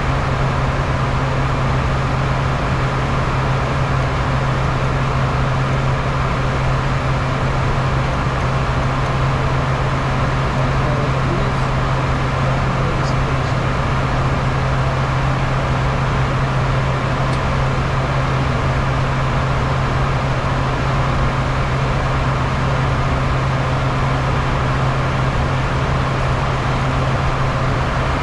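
Steady interior noise of a Bombardier Challenger 350 business jet in flight: a constant low hum under an even rush of airflow and turbofan engine noise.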